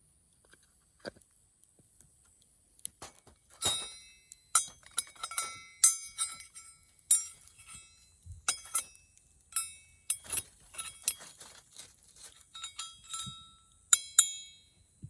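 Metal camp cookware clinking in a string of light, irregular knocks, each ringing briefly: a utensil knocking against a metal pot or mess tin.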